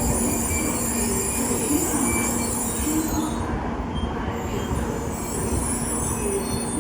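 Shinkansen high-speed train running: a steady rumble and rush of noise with faint humming tones, the high hiss thinning briefly about halfway through.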